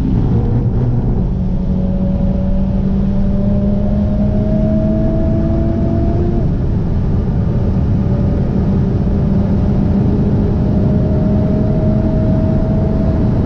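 Honda Civic Type R's turbocharged 2.0-litre four-cylinder engine pulling hard under full throttle, heard from inside the cabin over steady road rumble; the engine note climbs, drops at an upshift about six seconds in, then climbs again to another shift near the end.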